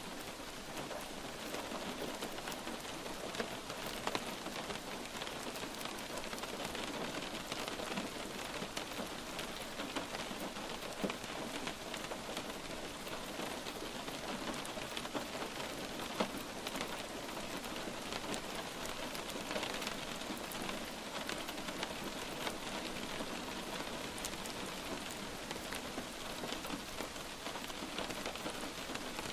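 Light rain falling steadily, a constant hiss of rainfall with scattered sharper drop impacts a few times.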